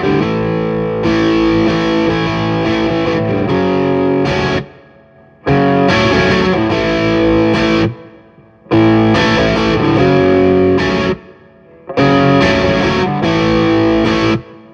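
Distorted electric guitar playing an original song: four phrases of held chords, each stopped abruptly with a short silence between, the last trailing off near the end.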